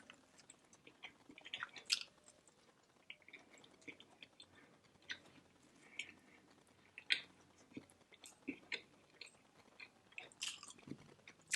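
Faint, close-miked chewing of barbecue ribs, with scattered wet mouth smacks and clicks at irregular intervals.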